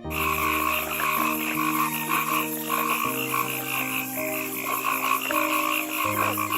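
Frogs croaking in a dense, rapidly pulsing chorus, over background music with held low notes that change every few seconds.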